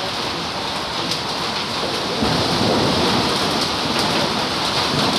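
Heavy monsoon rain pouring steadily onto a road and ground. About two seconds in, a low rumble builds up under it and the sound grows louder.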